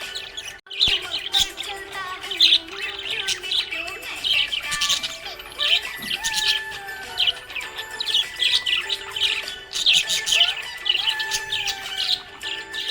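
Budgerigars chirping and chattering in dense, quick bursts, with a brief dropout about half a second in.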